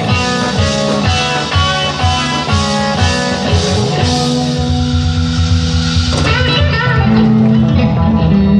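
Live rock band playing: guitar over bass and drum kit.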